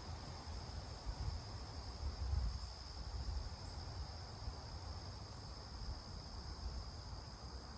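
Steady high-pitched insect chorus, crickets calling without pause, over an uneven low rumble.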